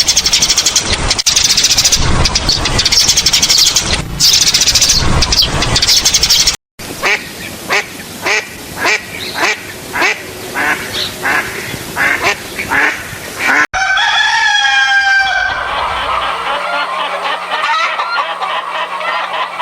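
Waterfowl calling in three cut-together clips. First comes a loud, dense flock chorus, then a run of short repeated calls about two a second, then longer calls that slide in pitch.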